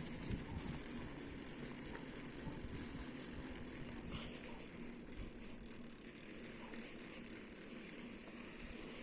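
Bicycle rolling along a rough road, rattling steadily over low rumble, with a steady low hum.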